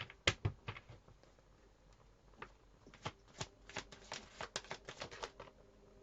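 Tarot deck shuffled by hand: a series of quick card clicks, a short spell at the start and a longer run from about three seconds in.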